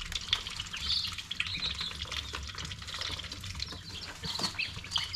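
Young chicks peeping in short high chirps over steady scratching and rustling, with a low hum underneath.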